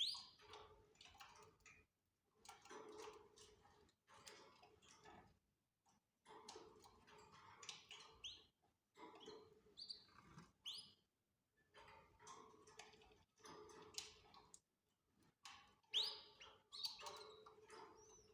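Canaries giving short, faint chirps and calls, with scattered clicks between them.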